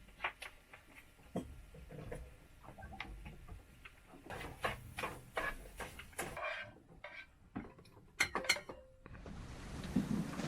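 Irregular light clicks and clatter of small hard objects being handled, thickest in the middle and toward the end.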